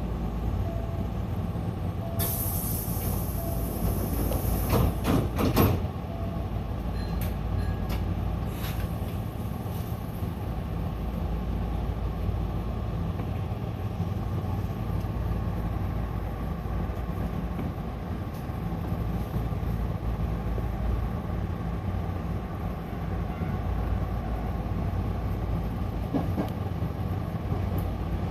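Hankyu local electric train running between stations, heard from inside the car: a steady rumble of wheels and running gear. A high hiss comes in about two seconds in, and a quick cluster of sharp knocks follows around five seconds in.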